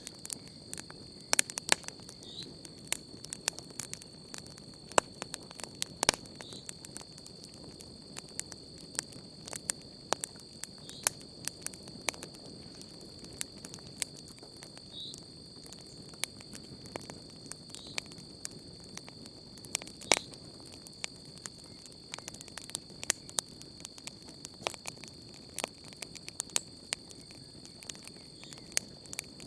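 Wood campfire crackling, with irregular sharp pops and snaps, a few much louder than the rest, over a soft steady hiss of flame. A steady high cricket trill runs underneath.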